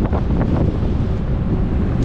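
Wind buffeting a GoPro Hero 11 action camera's microphone on a road bike in motion: a steady, loud rumble of wind noise.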